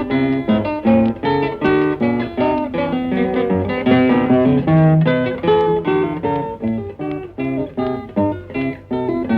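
Background music: a quick run of plucked acoustic guitar notes.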